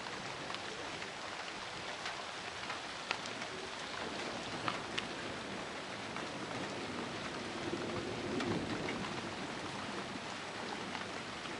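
Thunderstorm rain falling steadily, an even hiss with scattered sharp ticks of drops striking nearby surfaces, and a low rumble swelling briefly about eight seconds in.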